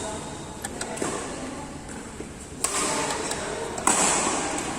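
Badminton play: a few light taps, then two sharp racket strikes on a shuttlecock about a second apart, each trailing off in the hall's echo.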